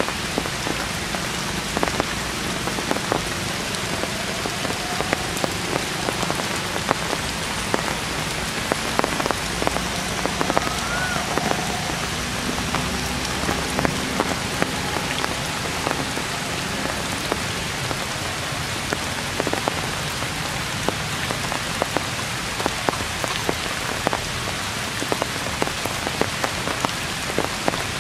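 Heavy rain falling on leaves and foliage: a steady hiss dotted with many sharp, close drop impacts.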